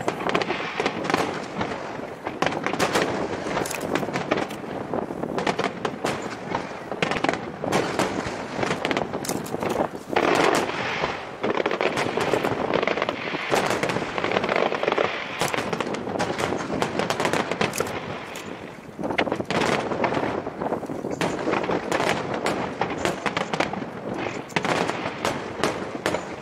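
Large fireworks display: a dense, nearly continuous barrage of aerial shell bursts and crackling, with one short lull about two-thirds of the way through.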